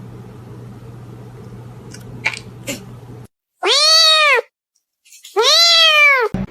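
A cat meowing loudly twice, each meow rising then falling in pitch. Before the meows there is a steady low hum with a couple of clicks.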